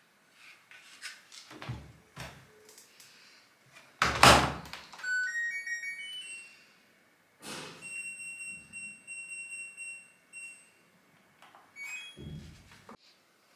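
Household knocks and thuds like cupboard doors and drawers being handled, with a loud thunk about four seconds in. Right after it comes a quick rising run of electronic beeps, then a steady electronic beep tone for about three seconds, with a few short beeps and another thud near the end.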